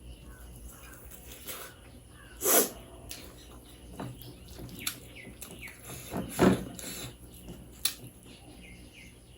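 Close-miked eating sounds: two loud wet mouth noises about four seconds apart, with smaller clicks and chewing between them. Faint bird chirps in the background.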